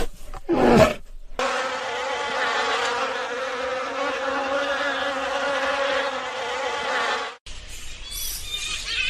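Bee buzzing in a steady drone, starting about a second and a half in and cutting off abruptly near the end. It comes after two short, loud animal calls in the first second.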